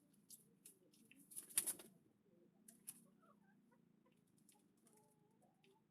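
Pigeons pecking at grain feed: a scatter of light, sharp taps, with a brief louder flurry about a second and a half in. A faint low hum runs underneath.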